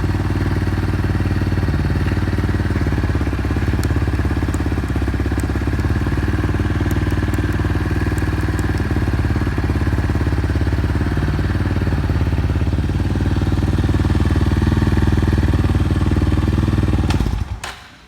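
Yamaha Tricker's single-cylinder engine idling through a Dirt Freak Delta full exhaust system, running evenly with no abnormal noise, then shut off near the end and dying away.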